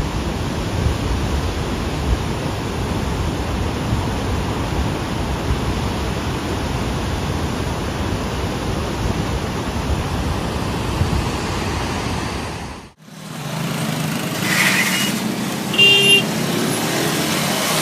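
Steady roar of a flood torrent, loud enough that the filmer takes it for a load of stones rolling in the water. It cuts off suddenly about thirteen seconds in, giving way to a lower hum with a couple of short beeps.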